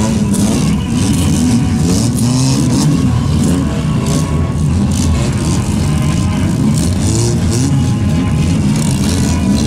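Engines of several stripped-down old stock cars running as they drive past in a slow line, revving up and down so their pitch keeps rising and falling.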